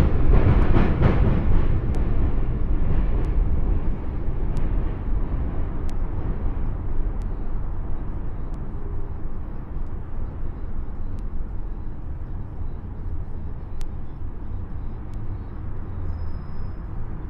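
Subway train running over the bridge tracks: a low rumble that is loudest at the start and fades steadily as the train moves away, with occasional sharp clicks.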